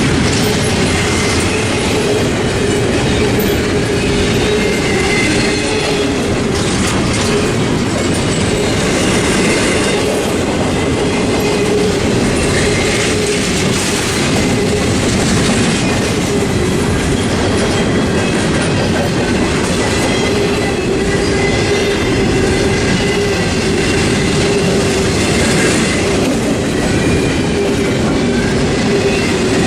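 A long freight train rolling past at close range, its cars clattering steadily over the rail joints, with a thin wheel squeal coming and going.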